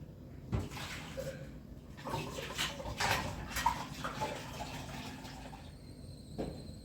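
Water pouring and splashing, with scattered clicks and knocks; it starts about half a second in and stops suddenly near the end.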